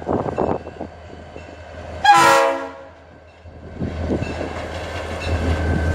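A short blast on a Florida East Coast diesel locomotive's Leslie S3L air horn about two seconds in. The low rumble of the approaching locomotives then builds steadily louder.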